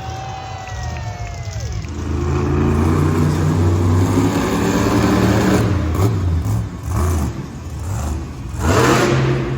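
Monster truck engine running and revving, its low drone surging up and down, with a loud rush of noise near the end.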